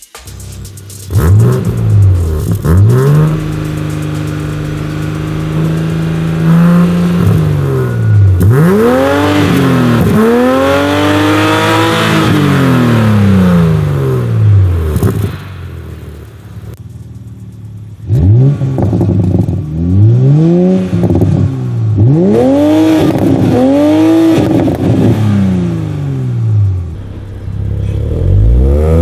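A 2020 Toyota GR Supra's turbocharged 3.0-litre inline-six is revved through an APEXi N1-X non-resonated stainless catback exhaust with titanium tips. There are several revs rising and falling, one held steady for a few seconds, a quieter low stretch around the middle, then a run of quick blips.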